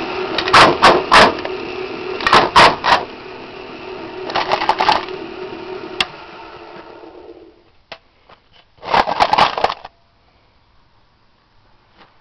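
Electric-motor-driven jaw ore crusher running with a steady hum while rocks crack and clatter in its jaws in three loud bursts of sharp hits. The motor is switched off about six seconds in and the hum dies away. A second burst of clattering rock follows near the end.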